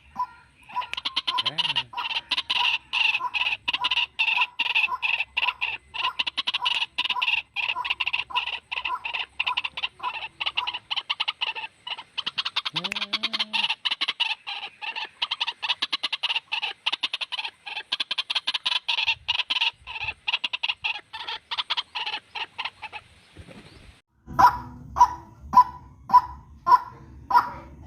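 White-breasted waterhens (ruak-ruak) calling. A fast, dense run of repeated notes breaks off about 23 seconds in; after a short pause, louder calls come at about two a second.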